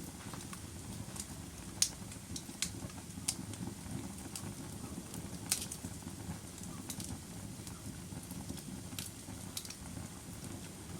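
Log fire crackling: irregular sharp pops and snaps over a steady low rumble of burning wood, with the loudest pops about two and five and a half seconds in.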